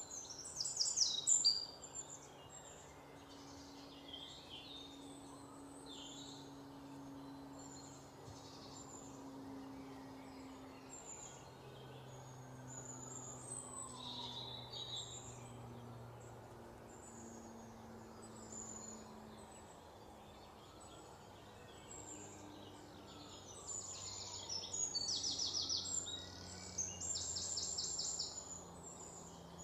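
Small birds chirping and twittering, with loud runs of fast repeated chirps about a second in and again near the end.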